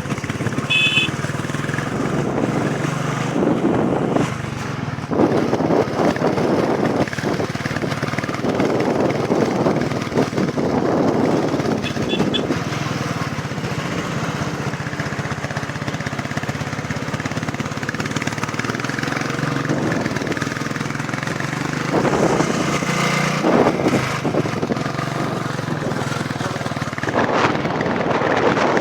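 Royal Enfield Classic 350's single-cylinder engine running steadily under way, with irregular louder surges of rushing noise over it.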